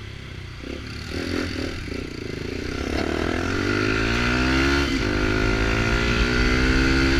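Small Kawasaki Ninja motorcycle with a straight-pipe sport exhaust accelerating. From about three seconds in, the engine note climbs and grows louder, dips briefly near five seconds, then climbs again.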